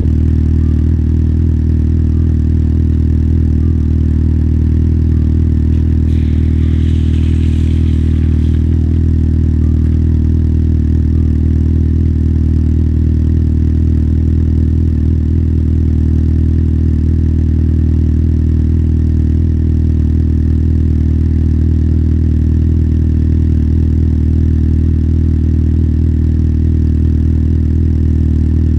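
Motorcycle engine idling steadily at an even pitch. A brief hiss rises and fades about six to eight seconds in.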